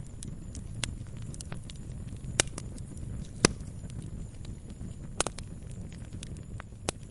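Wood fire crackling in a fireplace: a steady low rumble of flames with scattered sharp pops and snaps, the loudest about two and a half and three and a half seconds in.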